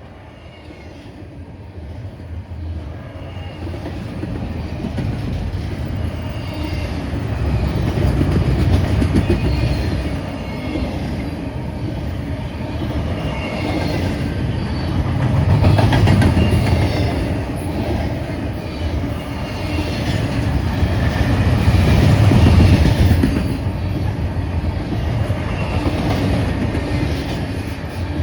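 Fast freight train passing at speed: its cars' wheels clicking and rumbling over the rail. It builds up over the first several seconds as it draws near, then stays loud, swelling and easing in waves.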